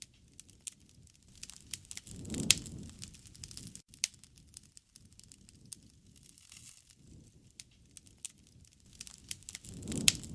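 Wood bonfire crackling with irregular sharp pops over a low rush of flame, which swells twice, about two seconds in and near the end, with the loudest pop about two seconds in.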